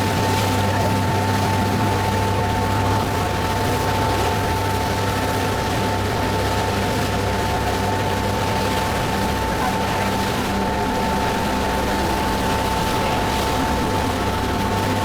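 Passenger ferry's engines running steadily while underway: a constant low drone with a steady whine above it and a wash of water and wind noise.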